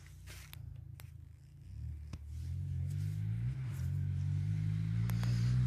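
Dirt bike engine approaching from a distance, growing steadily louder, its pitch rising under throttle and dipping at gear changes.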